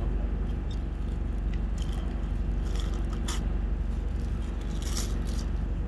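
Food packaging rustling and crinkling in several short bursts over a steady low hum, like a car idling.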